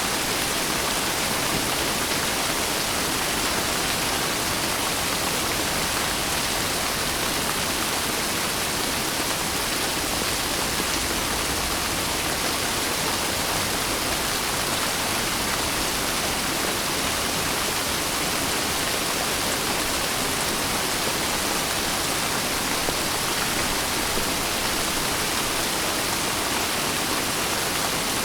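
Steady heavy rain: an even, unbroken hiss of rainfall with no single drops or thunder standing out.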